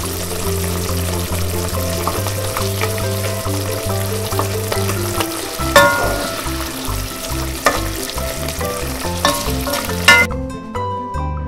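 Steady frying sizzle, added as a sound effect over light background music, that cuts off suddenly about ten seconds in. A few sharp clicks of the plastic spatula on the toy waffle maker sound along the way.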